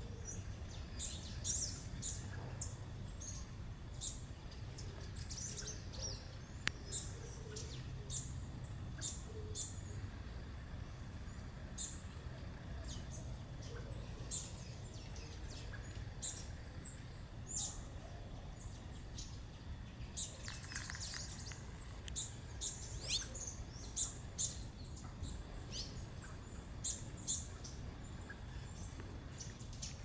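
Wild birds chirping in a garden: many short, high-pitched calls from several birds, thickening into a dense flurry about two-thirds of the way in, over a steady low background rumble.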